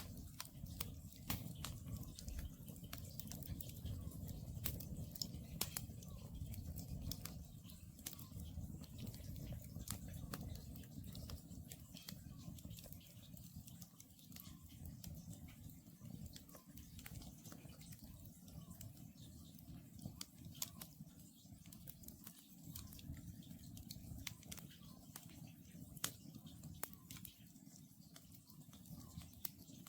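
Wood campfire burning, with irregular sharp crackles and pops over the low rush of the flames. Faint, distant calls of an Oriental scops owl come through at intervals.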